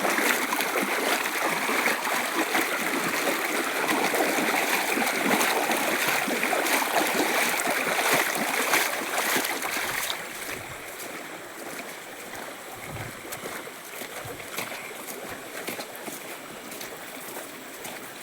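Running water, a steady rushing that drops noticeably quieter about ten seconds in.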